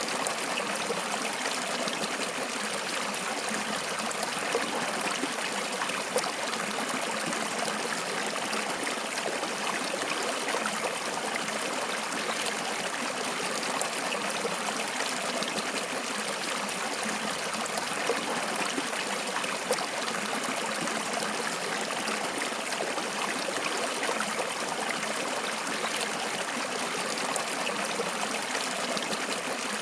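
Flowing stream water running steadily, with small splashes and trickles.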